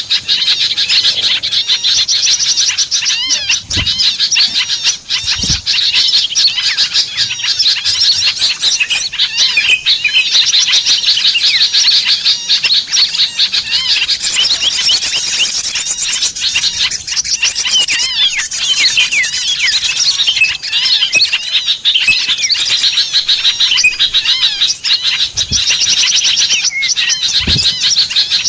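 A dense chorus of small songbirds chirping and twittering fast and without a break, many high calls overlapping. It is a bird-lure (pikat) recording meant to draw small birds in. A few faint low thuds sound briefly in between.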